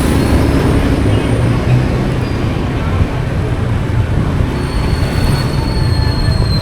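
Motorcycle taxi riding through city traffic: a steady, loud rumble of the engine and road noise, with a faint high whine joining in about two-thirds of the way through.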